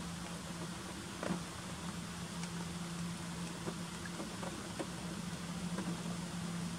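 Steady rain falling, with scattered drops ticking close by, the loudest about a second in, over a steady low hum.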